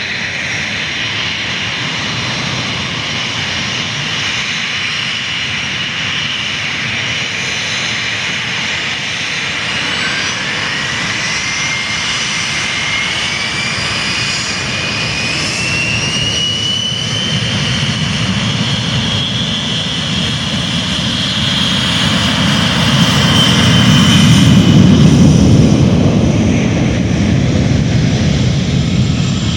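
Jet engines of a Boeing airliner running at takeoff power. A whine climbs steadily in pitch for about ten seconds, then the sound swells to its loudest with a deep rumble about three-quarters of the way through.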